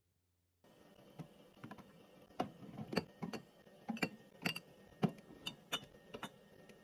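Fridge restocking handling sounds: an irregular run of light clicks and knocks, about two a second, as containers and packets are set down and moved about.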